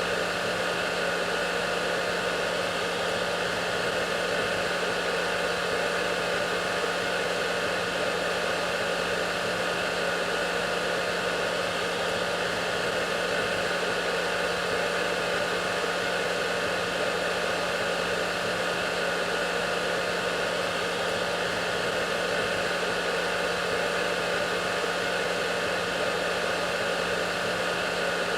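Hair dryer running steadily: an even rushing blow of air with a low motor hum and a few faint steady whine tones, unchanging throughout.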